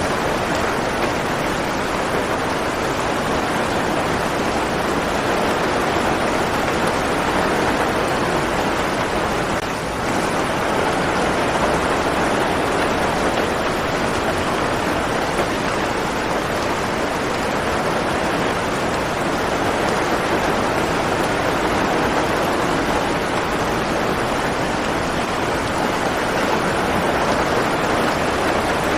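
Steady rain falling, a dense, even hiss of water with no separate drops or thunder standing out, dipping slightly for a moment about a third of the way through.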